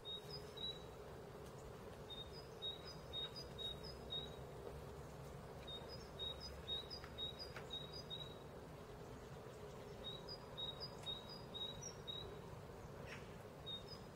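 Faint bird chirps: runs of short, high chirps, three or four a second for about two seconds, that come back after short pauses, over a low steady hum.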